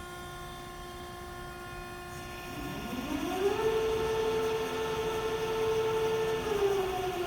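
Hyd-Mech V-20 vertical band saw running up. Over a steady machine hum, a motor whine rises in pitch about two and a half seconds in, holds steady for about three seconds, then falls in pitch near the end as the drive winds down.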